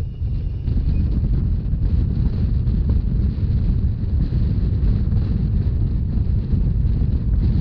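Wind buffeting the microphone over the steady low rumble of a narrow-gauge Rhaetian Railway train running at speed.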